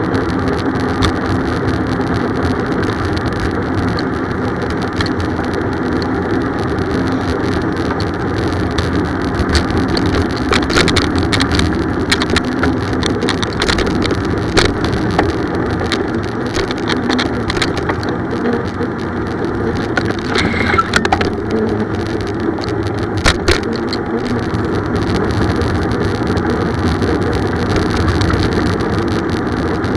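Continuous road noise of a bicycle ride: a steady rushing sound, with scattered sharp clicks and rattles about halfway through.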